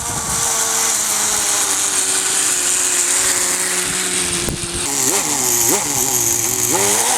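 Small nitro glow engine of a Kyosho Nitro Blizzard RC belt-crawler running with a high buzz at a fairly steady pitch, then revved up and back down in a few short blips near the end.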